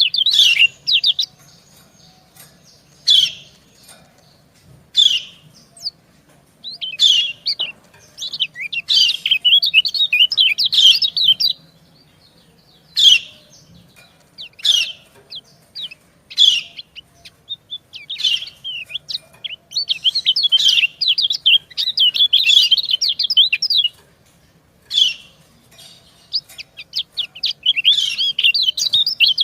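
White-eyes (kecial) calling: short single 'ciak' chirps at irregular intervals, alternating with stretches of rapid, high twittering as female calls answer a male's song.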